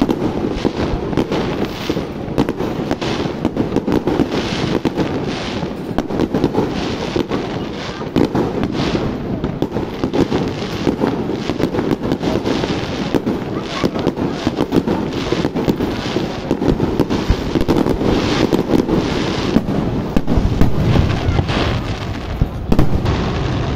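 Aerial fireworks going off in a dense, rapid string of bangs and crackles, with no pause.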